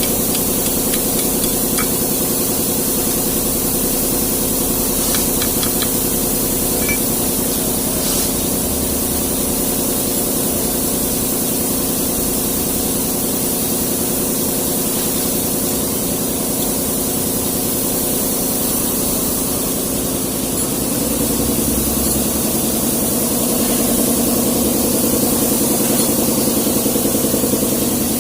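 Hino truck's diesel engine idling steadily, picking up slightly and getting a little louder about three-quarters of the way through.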